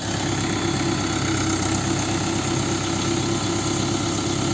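Mahindra farm tractor's diesel engine running steadily at a constant speed.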